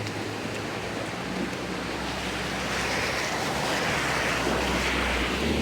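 Fast-flowing floodwater rushing, a steady noise that swells midway. A low vehicle engine hum comes in about a second in and grows louder toward the end.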